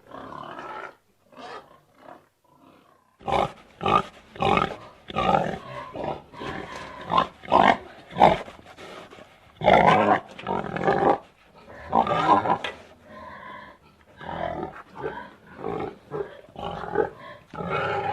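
Domestic pig grunting and squealing in a rapid run of short calls, which begins about three seconds in after a few faint calls.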